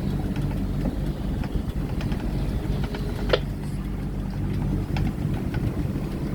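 A boat engine running steadily as a low rumble, with scattered small clicks and one sharper click about halfway through.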